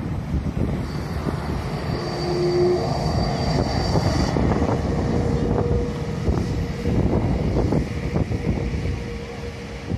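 Strong wind buffeting the microphone in gusts, with a faint high steady whine about a second in that stops near the middle and a fainter low steady hum underneath.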